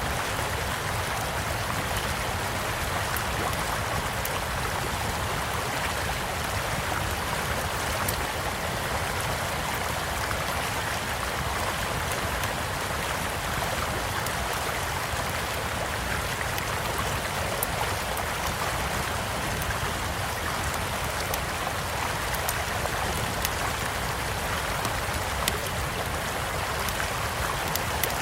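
Steady rush of a small stream, with a campfire crackling over it in scattered small clicks and a few sharper pops.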